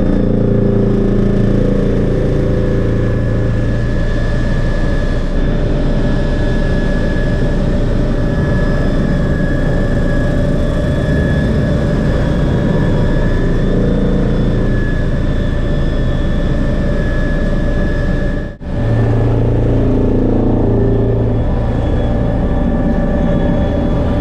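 MBB Bo 105 helicopter in flight: its twin turbine engines give a steady high whine over the dense drone of the rotor, whose low note shifts in pitch a few times as the load changes. The sound drops out briefly about three-quarters of the way through.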